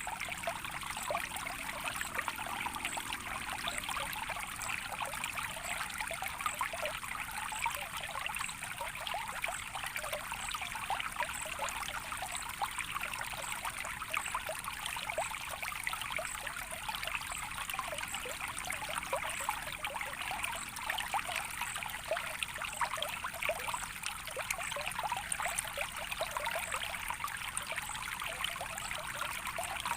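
A small stream of water trickling steadily, a constant busy patter of small splashes.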